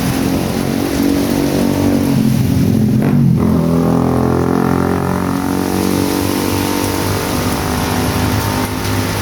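A motor vehicle drives past on a rain-soaked street with its engine note dropping in pitch about three seconds in, over the steady hiss of heavy rain.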